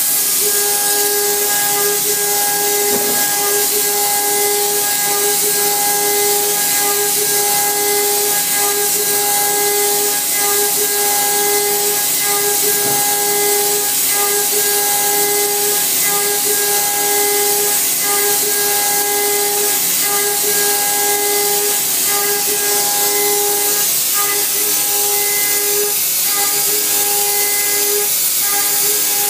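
Samsung MCV50 vertical machining centre milling mild steel with a 1/2-inch four-flute carbide end mill at 6100 rpm. It is taking light radial cuts at high feed around a circular pocket, giving a steady whine over a loud, even hiss.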